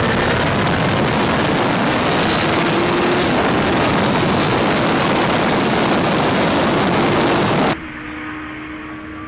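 2008 Kawasaki ZX-10R inline-four engine running hard at high revs, loud and dense with its note climbing. About three-quarters of the way through it cuts off suddenly to a quieter, steadier engine note that starts rising again near the end.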